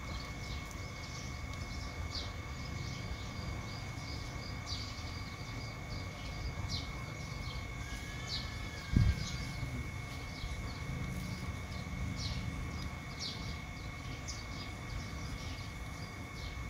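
Outdoor ambience: small birds chirping in short, repeated high calls over a steady low rumble and a faint steady high tone. A single sharp thump about nine seconds in is the loudest sound.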